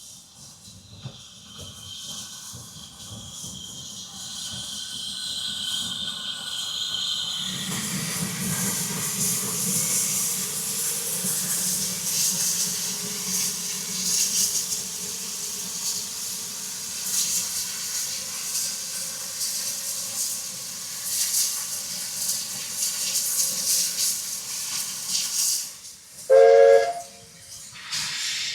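Narrow-gauge steam locomotive hissing steam, the hiss swelling loud about seven seconds in, then a short steam whistle blast lasting about a second near the end.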